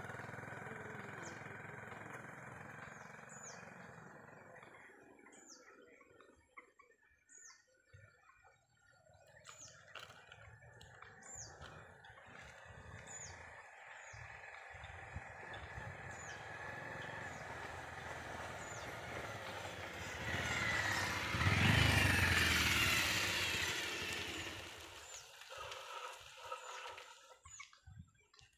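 A bird calling over and over with a short, high, downward-slurred note about once a second. A motor vehicle fades away in the first few seconds, and another passes louder about two-thirds of the way through, the loudest sound here.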